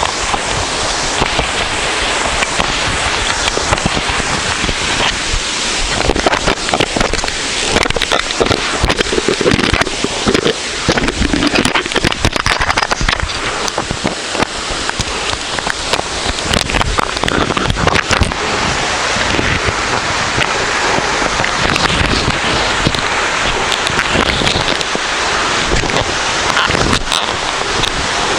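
A waterfall heard close up: a loud, steady rush of falling water with a dense crackle of sharp pops throughout.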